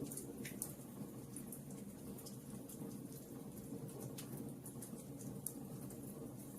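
Wood fire in a fireplace crackling: small sharp pops at irregular moments over a steady low rumble.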